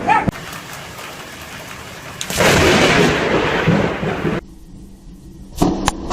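Close thunder in heavy rain: a sharp crack at the start, then rain hissing, then a loud crash of thunder about two seconds in that cuts off suddenly, and more sharp cracks near the end from a nearby lightning strike.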